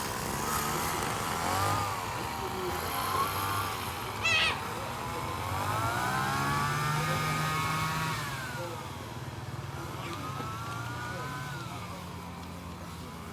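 Small petrol engine revving up and down several times, its pitch rising, holding and falling, over a low steady engine hum. About four seconds in there is a brief, loud, high wavering squeal.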